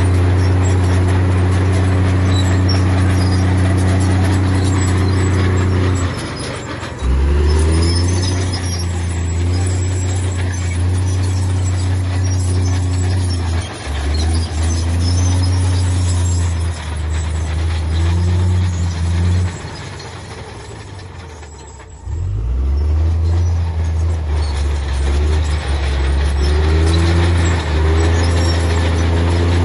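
Heavy diesel engine of earthmoving machinery running hard. The engine note eases off twice, briefly about six seconds in and for about two seconds near twenty seconds in, then picks back up as the load changes.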